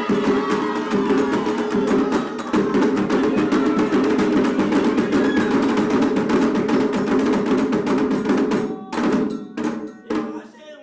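Candomblé atabaque hand drums playing a fast, dense rhythm, the toque 'rum' for Oxum. The drumming breaks off about nine seconds in, with a few last separate strokes.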